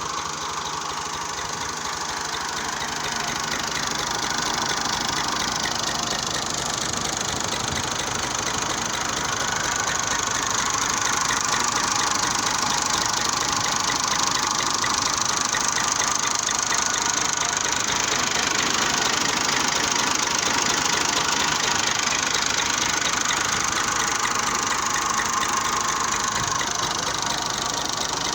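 Massey Ferguson 240 tractor's three-cylinder diesel engine idling steadily with a fast, even knock.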